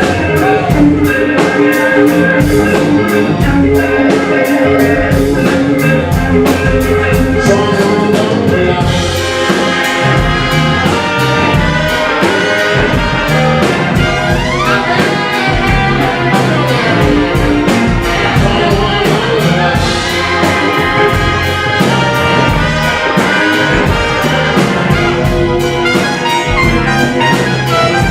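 Live blues band playing an instrumental passage with no vocals: tenor saxophone and trumpet horn lines over drums, bass, guitars and keys, with a steady beat.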